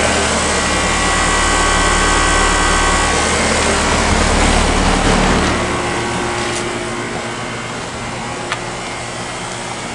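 Outdoor air-conditioner condensing unit running: a steady low hum with a few steady higher tones, dropping away after about six seconds.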